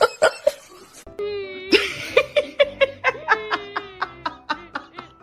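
A person laughing in quick, rhythmic bursts.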